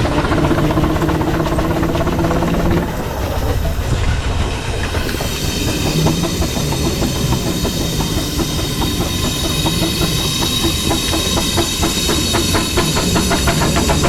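Double-high two-cylinder engine of a 6-inch scale Foden C-Type steam wagon running under way, with steam hiss. It drones steadily for the first few seconds, then settles into rapid, even exhaust beats from about five seconds in.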